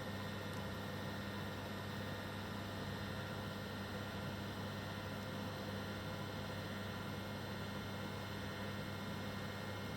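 Steady low electrical hum over a background hiss, unchanging throughout, with no bird calls heard.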